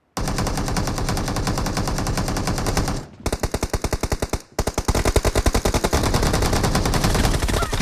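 Video-game automatic gunfire: a rapid-fire weapon firing long bursts of closely spaced shots, starting suddenly, with a short break about three seconds in and another about a second and a half later before the fire resumes.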